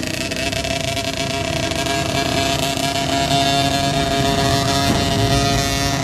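Dirt bike engine running at a steady pitch over a dense wash of engine noise.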